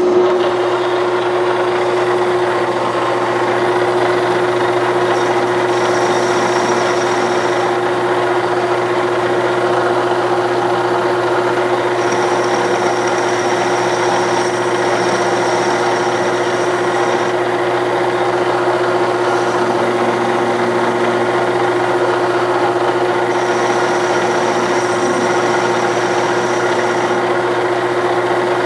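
Clausing Colchester 1340 metal lathe starting up and running steadily at 570 rpm, with a constant gear and motor hum. A thin high whine comes and goes three times.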